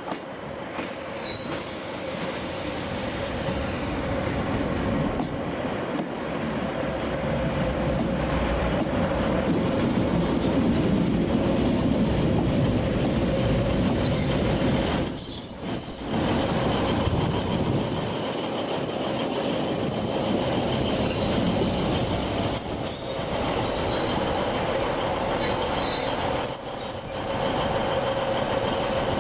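Train moving along a station platform: a rumble that builds over the first ten seconds and then holds steady under a constant hum. Short, high-pitched wheel squeals come three times, about halfway through and again twice near the end.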